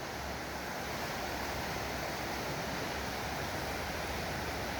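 Creek running high and fast with snowmelt and rain runoff, a steady rushing of water with no breaks.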